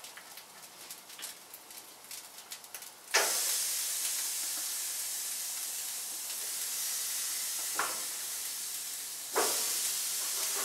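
Thin chuck steaks laid onto a hot grill grate: a faint crackle, then a sudden loud sizzle about three seconds in that keeps going. A fresh burst of sizzle comes near the end as another steak goes on.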